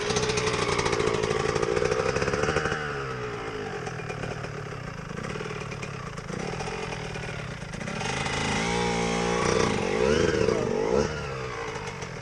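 Dirt bike engines revving, their pitch rising and falling as they accelerate and back off; loudest in the first few seconds and again from about eight to eleven seconds in, where more than one engine can be heard.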